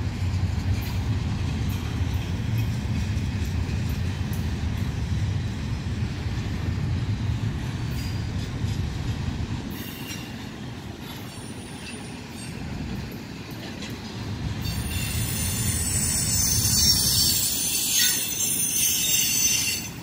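A train rolling past with a steady low rumble; from about 15 seconds in, its wheels squeal high-pitched against the rails over the rumble.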